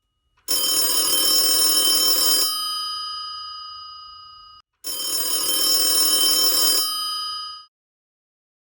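A telephone ringing twice. Each ring is about two seconds of steady, high, bell-like tones, then fades away.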